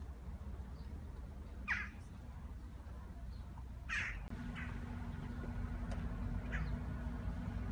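A bird calling: four short, sharp calls, the loudest about four seconds in, over a steady low outdoor rumble. A steady low hum joins about halfway through.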